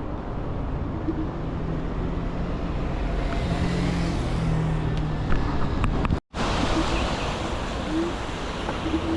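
Wind rushing over the microphone and road noise while riding an electric bike, with a low steady hum through the middle few seconds. The sound cuts out for a split second about six seconds in.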